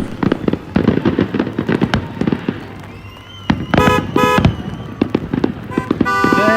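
Fireworks going off: a dense run of crackling pops and bangs, with a brief lull about three seconds in.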